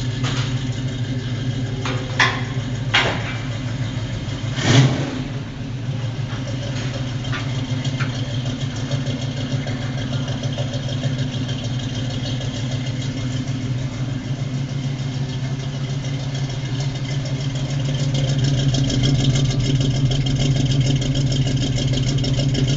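350 cubic-inch small-block V8 idling steadily through a new exhaust of Flowmaster headers, Jegs mufflers and 2.25-inch tailpipes. A few sharp knocks sound in the first five seconds, the loudest near the fifth second, and the engine grows a little louder in the last few seconds.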